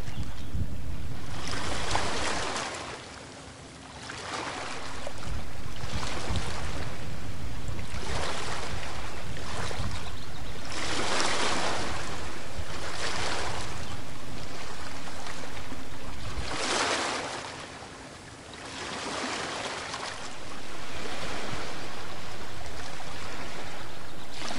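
Ocean surf washing on a beach in repeated swells, each rising and falling over a couple of seconds, dropping twice into quieter lulls.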